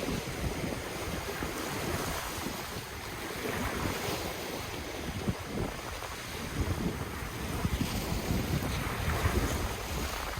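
Ocean waves washing onto the shore in a continuous rushing surf, with wind gusting across the microphone in irregular low rumbles.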